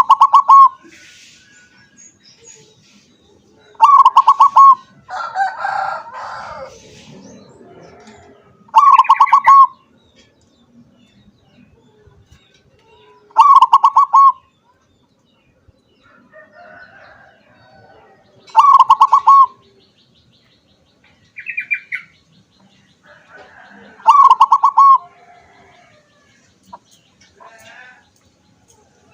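Zebra dove (perkutut) singing its rapid, stuttering cooing phrase, about a second long, six times at roughly five-second intervals. Fainter chirps of other birds come between the phrases.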